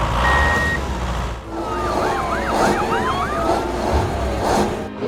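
A siren yelping in quick rising-and-falling sweeps for about two seconds, over a steady low hum, with a short single beep near the start.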